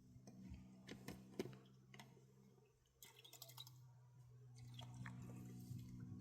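Near silence: faint scattered clicks and ticks, with a short cluster of them about halfway through, over a low steady hum.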